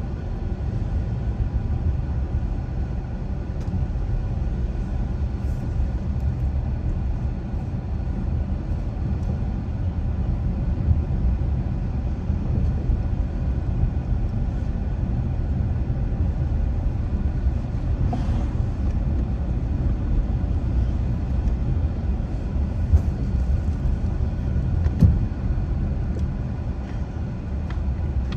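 Steady low road and engine rumble of a car driving, with a few faint knocks along the way.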